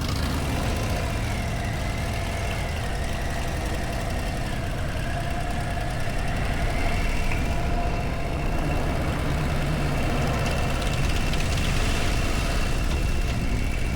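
Harley-Davidson Low Rider ST's Milwaukee-Eight 117 V-twin engine running steadily.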